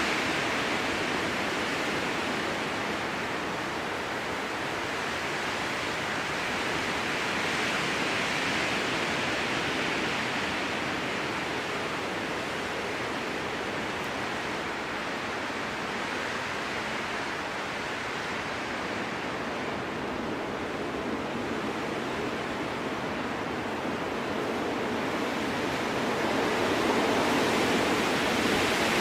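Strong wind blowing through a spruce forest: a steady rushing that swells a little about eight seconds in and again near the end.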